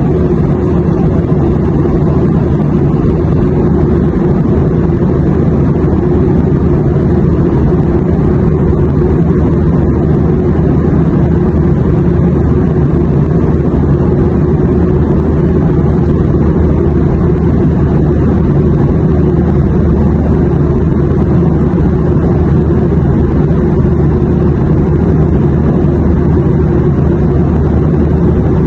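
Airplane cabin noise: a steady, unchanging low rumble with faint humming tones.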